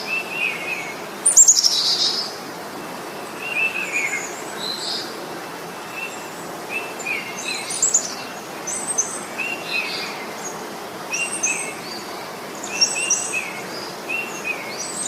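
Several songbirds chirping and calling over a steady hiss of outdoor background noise. One call with a short falling tail repeats every second or so, mixed with higher, quicker chirps. A louder, descending run of notes comes about a second and a half in.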